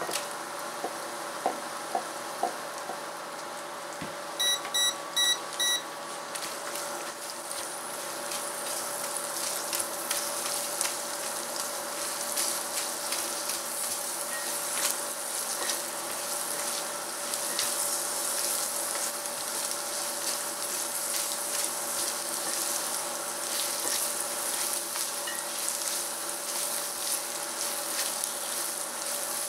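Chopped onion and garlic sizzling in hot chorizo fat in a stainless steel pan, with a silicone spatula stirring and scraping; the sizzle grows louder after the first several seconds. About four seconds in come four short electronic beeps, from the induction cooktop's controls.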